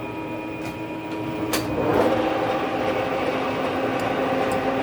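Metal lathe running with a carbide tool cutting a taper: a steady machine hum with several held tones under a harsh cutting noise that grows louder about two seconds in.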